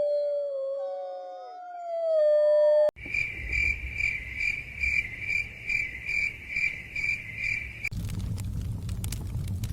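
Several wolves howling in long overlapping glides, cut off abruptly about three seconds in. Then crickets chirp in steady, evenly spaced pulses about twice a second. Near the end these give way to a crackling fire over a low rumble.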